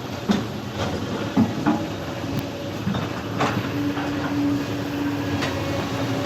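Kobelco excavator's diesel engine running steadily, with irregular metallic clanks and knocks from the working machine. A steady hum grows stronger about halfway through.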